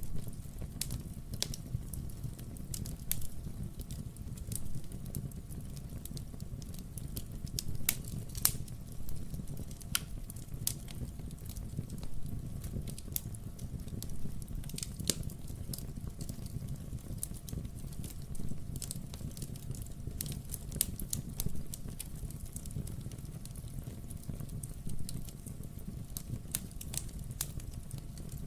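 Wood fire burning in a fireplace: a steady low rush of flames with irregular sharp pops and crackles from the burning logs.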